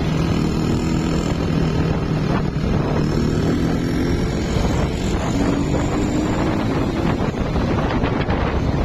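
Wind buffeting the microphone while riding a carburetted Honda Blade underbone motorcycle, with its single-cylinder four-stroke engine running underneath. The engine's pitch shifts up and down a few times.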